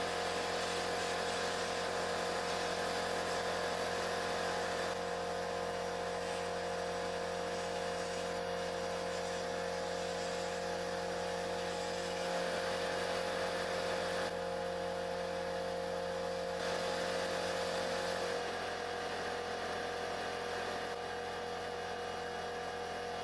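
A steady machine whir, a small motor running with a constant pitch; one of its tones drops out about three-quarters of the way through.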